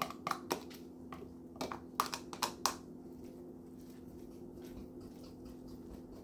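A spoon tapping and scraping leftovers out of food containers: a run of sharp clicks in the first three seconds, then fainter ticks, over a steady low hum.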